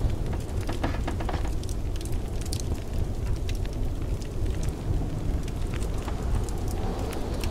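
Wood fire crackling in a fireplace, with scattered sharp pops, over the steady low rumble of blizzard wind.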